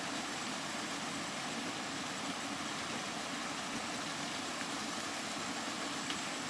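Steady, continuous rain noise: an even hiss with a low rumble beneath it and no separate drops or breaks.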